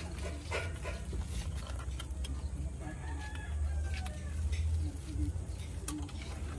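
A rooster crowing once, starting about three seconds in, over a steady low hum and scattered small clicks.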